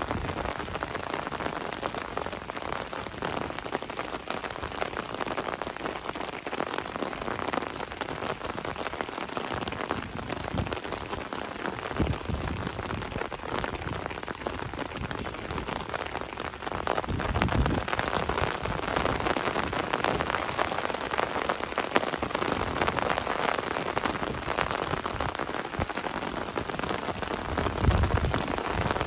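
Heavy rain pouring down, a steady hiss of falling drops that grows louder a little past halfway, with a few low thumps.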